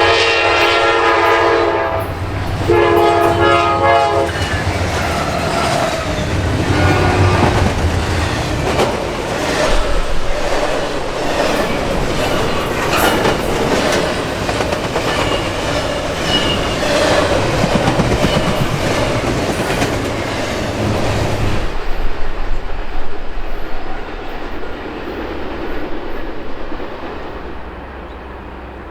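Norfolk Southern train passing at speed, its diesel locomotive horn sounding two long blasts and then a shorter third. Wheel clatter and rumble from the cars follow for about twenty seconds. The sound drops sharply about 22 seconds in, and a fainter rumble is left as the train moves away.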